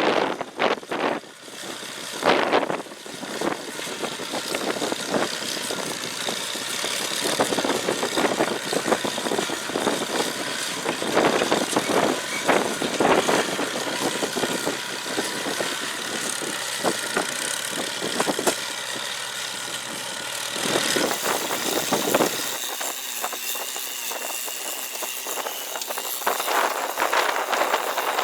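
Hay baler at work: its International Harvester Cub four-cylinder engine running steadily while the baler mechanism clatters and knocks irregularly as it packs hay.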